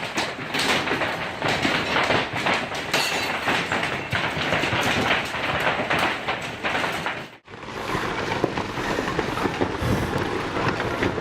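Hailstorm: a dense clatter of hailstones pelting down and hitting hard surfaces. It cuts off abruptly about seven seconds in, and a different dense, rumbling noise follows.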